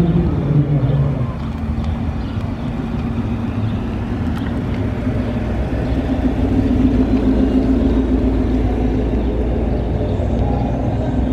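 A car engine running as the car drives off, with a steady low note that gets a little louder and higher about six seconds in.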